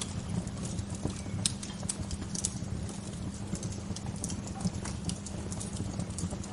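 Wood fire crackling: irregular sharp pops and snaps, several a second, over a steady low rush.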